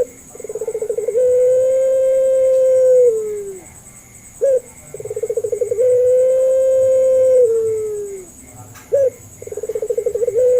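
Puter pelung dove (a long-cooing domestic collared dove) cooing: each call is a short note, a fast stuttering run, then a long drawn-out steady coo that drops in pitch at the end. The call repeats about every four and a half seconds, two full coos with a third starting near the end.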